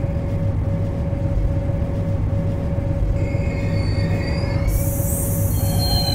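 MTR C-Train metro train running with a steady rumble and a constant hum. About three seconds in, high-pitched whining tones come in, and a hiss joins them near the end.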